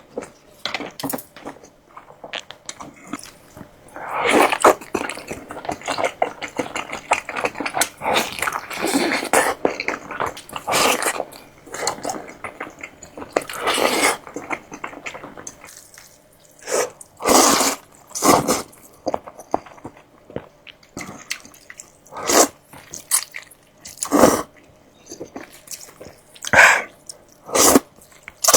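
Close-miked eating sounds: chewing and bites, first a dense stretch of crackly noise, then separate short bursts every second or two.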